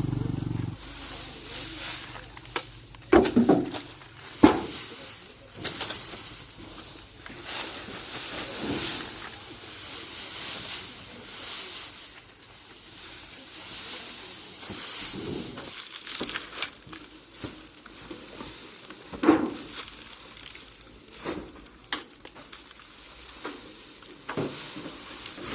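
A motorcycle engine running and cutting off under a second in. Then irregular rustling and swishing, with a few sharp knocks about three, four and a half, and nineteen seconds in.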